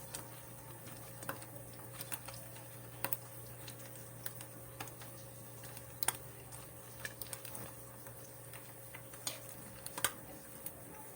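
Scattered light clicks and taps at an irregular pace over a faint steady hum.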